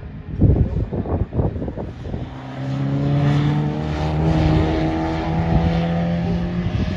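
Pre-1966 touring race car engine: a couple of seconds of choppy, uneven bursts, then a steady pull with the pitch climbing slowly as the car accelerates.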